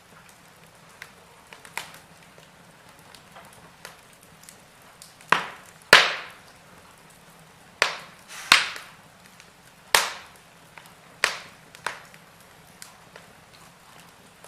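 Wood fire in a fireplace crackling, with sharp pops and cracks at irregular intervals; the loudest come in a run of about seven between roughly five and twelve seconds in. A faint low hum lies underneath.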